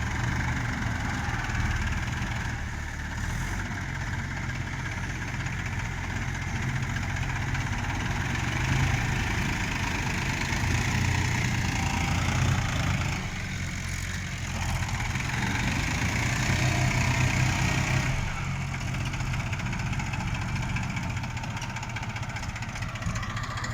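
Tractor diesel engine running steadily with a deep, even throb, its loudness swelling slightly now and then.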